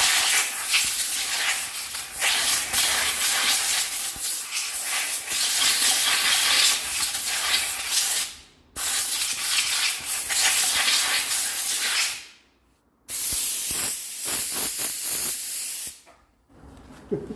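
Compressed-air blow gun hissing loudly in three long blasts, blowing burnt clutch dust out of the bell housing.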